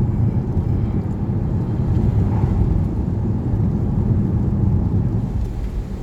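Steady low road rumble of a car driving, heard from inside the cabin, with tyre and engine noise on a wet road.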